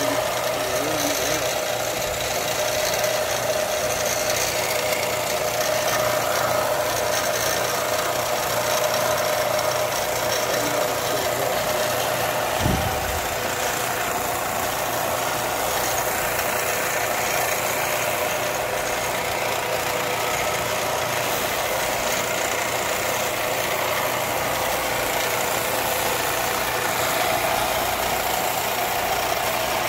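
A power grinder running steadily as a knife is ground, with one short knock about halfway through.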